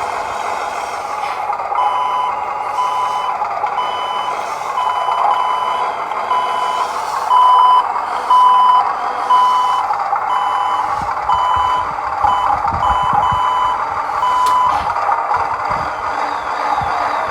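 Reverse warning beeper of a 1:24 scale RC International Prostar tractor truck, a steady series of short beeps at about one and a half a second that stops near the end, over the constant whirr of the small electric drive.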